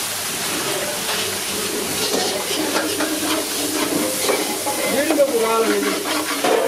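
Food frying in a large pan, a steady sizzle with the scrapes and knocks of stirring.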